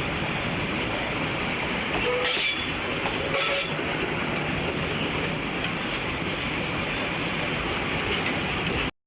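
A train running on the rails with a steady noise, and two brief high wheel squeals about two and three and a half seconds in. The sound cuts off suddenly near the end.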